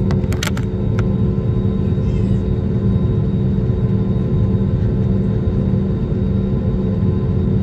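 Steady drone of an airliner's engines and airflow heard from inside the passenger cabin, a constant low rumble with a steady hum. A few light clicks come in the first second.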